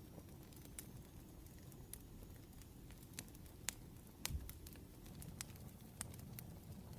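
Wood fire crackling faintly, with irregular sharp pops of burning firewood over a low, steady rumble.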